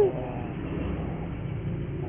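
Steady low background rumble. The last of a puter dove's coo fades out right at the start.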